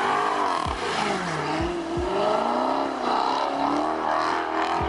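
Car engine revving hard up and down over and over while the car drifts, the revs rising and falling about once a second.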